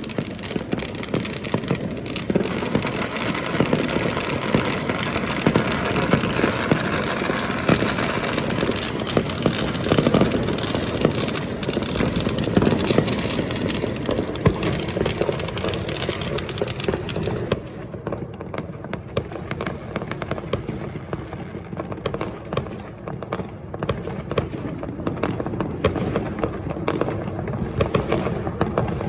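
Fireworks and firecrackers going off thick and fast, a dense, continuous crackling with many sharp bangs overlapping. About two-thirds of the way through the crisp high crackle drops away, leaving duller, more spaced bangs.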